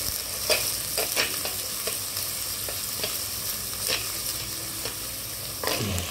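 Onions, chillies, tomatoes and ginger-garlic paste sizzling in hot oil in a clay pot, stirred with a steel slotted spoon that scrapes and knocks against the clay a few times at irregular intervals.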